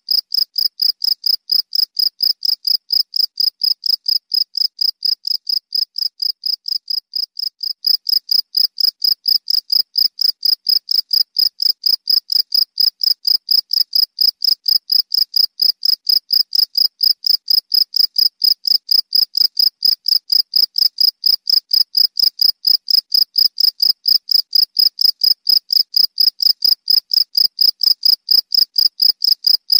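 Cricket chirping in a steady, even rhythm of high-pitched pulses, about three to four a second, a little louder from about eight seconds in.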